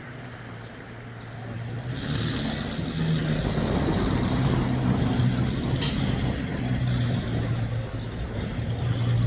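A motor vehicle's engine running steadily, growing louder about two seconds in, with one sharp click midway.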